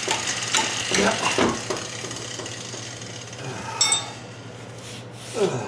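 Hand tools clinking and knocking on metal while working at a broken, rusted bolt, with one sharp ringing metallic clink about four seconds in. A steady low hum runs underneath.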